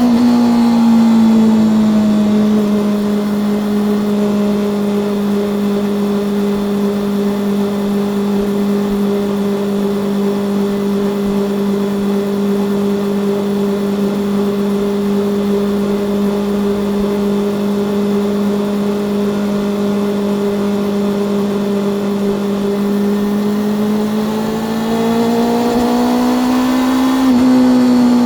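Honda CB400SF's inline-four engine and exhaust pulling at a steady cruise. Its note dips slightly in the first couple of seconds, holds level for a long stretch, then climbs again near the end as the revs rise.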